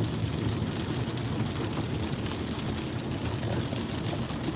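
Steady car interior noise while driving in a rainstorm: a low engine and road rumble with a hiss of rain.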